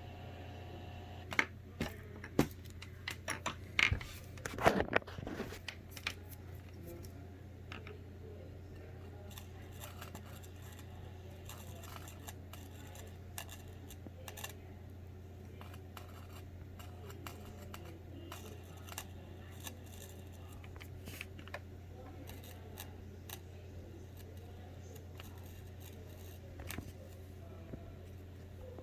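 Electrical hum and crackling pops through a computer monitor's audio as the contacts of a 3.5 mm cable plug are touched with something conductive. A burst of loud crackles comes in the first few seconds, then a steady low hum with scattered faint clicks.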